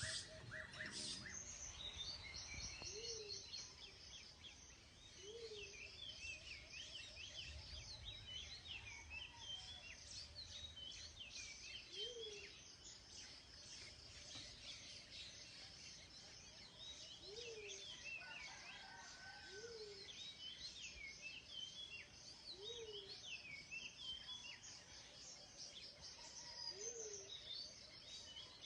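A faint chorus of many birds chirping and calling together, with a lower, short call repeating every two to three seconds beneath it.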